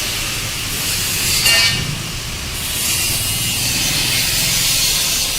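Motorcycle engine running steadily at idle through its exhaust, a low rumble under a strong hiss, with a brief high whine about a second and a half in.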